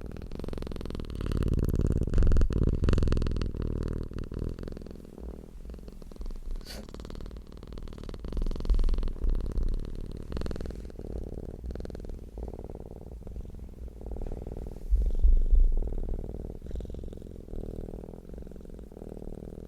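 Domestic cat purring close up: a continuous low, rumbling purr that swells and fades in waves every several seconds.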